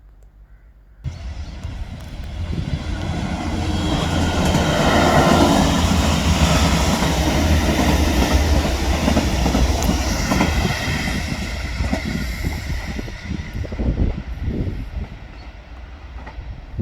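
A train passing on the line: a rush of wheels on rail with rhythmic clatter over the track, starting abruptly about a second in, swelling to its loudest in the middle and fading away near the end.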